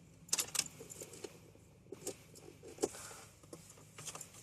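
Scattered light clicks and knocks inside a car as someone tries to start it, with no engine running or cranking: the car won't start because its battery is flat.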